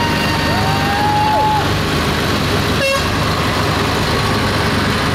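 Heavy vehicle engines running steadily, with horns sounding: two overlapping held toots in the first second and a half, and one short sharp blast about three seconds in.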